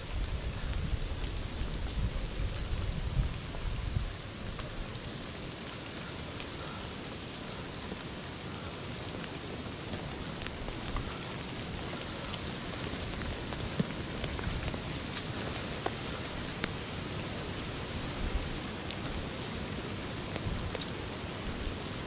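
Steady patter of rain falling on the woods and on the hunter's clothing and gear, a constant hiss dotted with small drop ticks. Low rumbling sits under it for the first four seconds, then stops.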